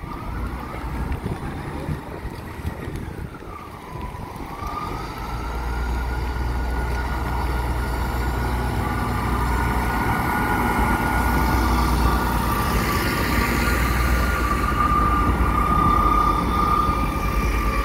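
Class 158 diesel multiple unit pulling away and accelerating across the level crossing. Its engine and transmission whine dips and then rises in pitch about four seconds in, and a heavy low rumble of engine and wheels builds as the train draws alongside and passes.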